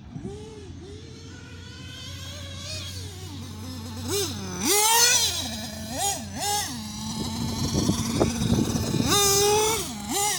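Alpha Racing .28 five-port nitro engine in a Kyosho Inferno MP9 TKI4 1/8-scale buggy, revving up and down over and over as the buggy is driven. It settles at a steady low idle for a couple of seconds late on, then revs up again.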